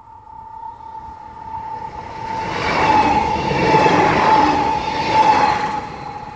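A train passing close by: the rail noise builds to its loudest about three to five seconds in, then starts to ease. A steady high tone sounds throughout.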